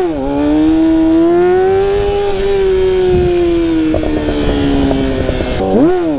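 Yamaha R6 inline-four sport bike engine at high revs under way, with wind rush. The pitch drops at an upshift right at the start, holds fairly steady with a slight rise and fall, then climbs and drops again at another gear change near the end.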